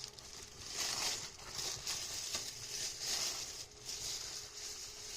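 Packaging being handled and opened by hand: repeated rustling and crinkling swishes, about one a second.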